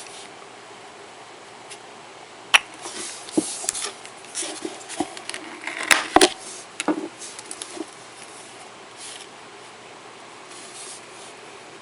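Nail-stamping tools being worked: a sharp click, then a few seconds of short scratchy scrapes and small clicks, as stamping polish is scraped across the metal image plate and picked up with the stamper.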